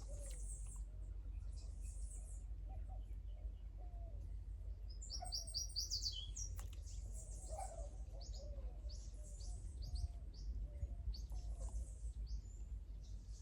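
Songbirds chirping and twittering in high, short notes, with a quick run of descending chirps about five seconds in, over a steady low rumble.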